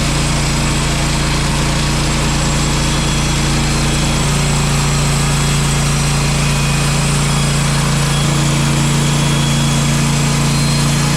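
Portable bandsaw sawmill running on its gas engine, a steady engine drone that shifts slightly in pitch twice.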